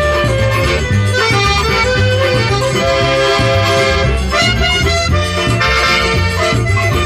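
Forró music: an accordion plays the melody over a steady bass beat with percussion.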